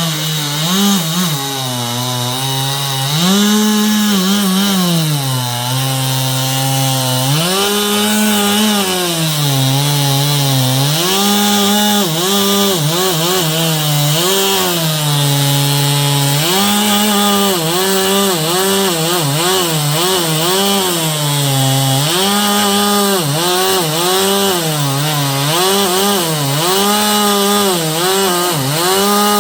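Stihl two-stroke chainsaw cutting wood, its engine speed swinging up and down over and over as it runs at full throttle and sags under the bite of the chain; the swings come faster in the second half.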